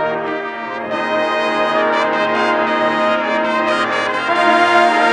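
Marching band brass section playing loud, sustained chords, swelling brighter and louder about a second in and again near the end.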